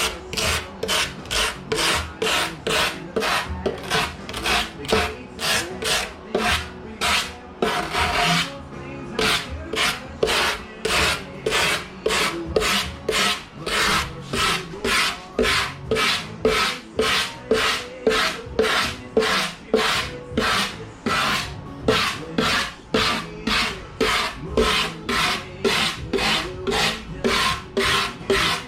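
Hand form rougher scraped in steady strokes over a foam deer mannequin, about two rasping strokes a second. The scraping roughens the form's smooth surface so the hide glue will hold.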